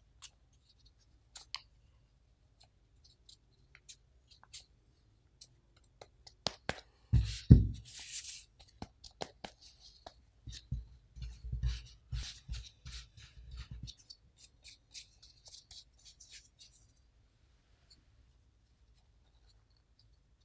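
Food preparation handling sounds: scattered light taps and clicks, a louder thump with a brief rustle about seven seconds in, then a run of soft thuds and crackles.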